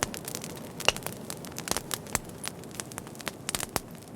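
Bonfire crackling: irregular sharp pops and snaps over a soft hiss.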